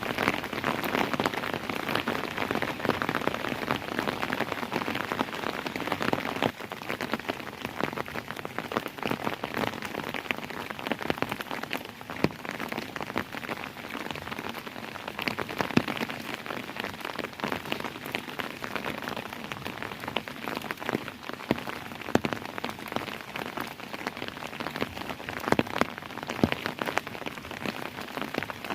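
Steady rain falling, a dense hiss with many individual drops pattering on a hard surface, a little heavier in the first few seconds.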